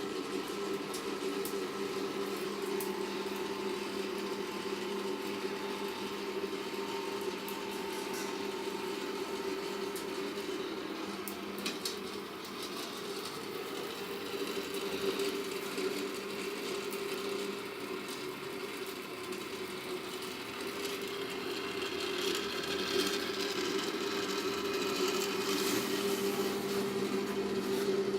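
Steady mechanical hum, like a small motor running, with a few faint clicks along the way.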